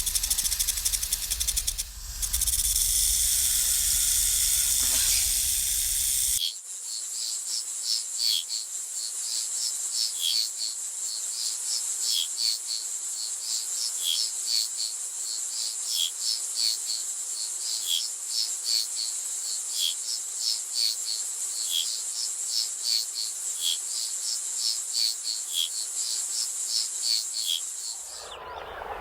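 Insects calling. First a dense, loud hissing buzz over a low rumble for about six seconds, then, after a cut, a steady high-pitched trill with short chirps repeating about twice a second.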